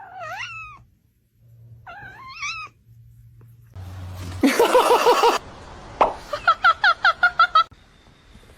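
A cat meowing twice, each call bending in pitch, followed by two runs of quick, rapidly repeated chirping calls.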